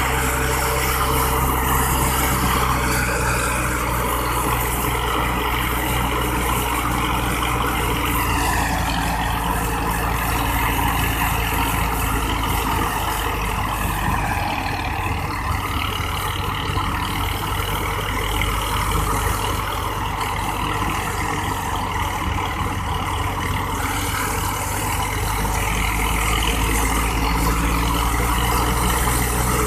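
Wheat thresher running steadily with its engine. The engine note sags a little through the middle and picks up again near the end.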